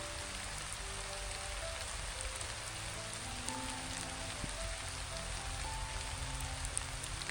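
Steady rain falling, an even hiss with scattered drop ticks, under soft background music playing slow single notes.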